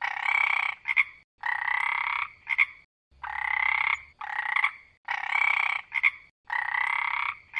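Frog croaking in a regular rhythm: five long croaks, each followed by a short one, a new call about every second and a half.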